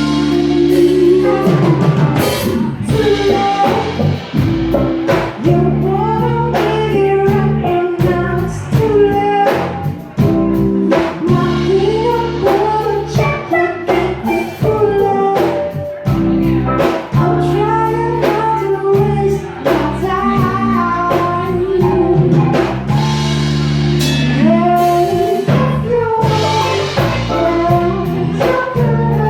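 A live band playing a song with a singer, drum kit and guitar, with a steady beat.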